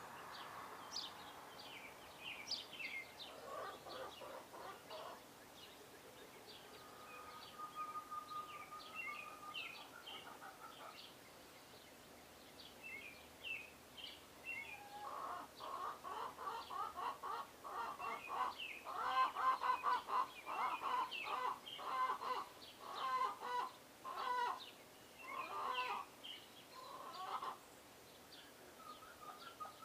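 Small birds chirping at bird feeders in short, high notes throughout. From about halfway in, birds give a louder run of lower, rapidly repeated calls.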